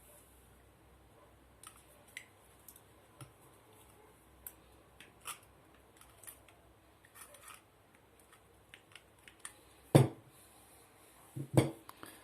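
Blender parts and small tools being handled during disassembly: scattered light clicks and taps, with two louder knocks, one about ten seconds in and one near the end.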